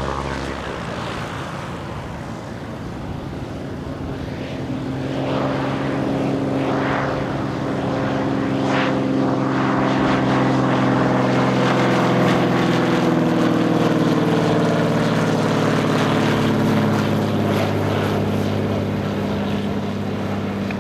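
Cirrus SR22T single-engine propeller plane landing, the drone of its turbocharged six-cylinder piston engine and propeller growing louder from about four seconds in. Its pitch drops slightly as it passes.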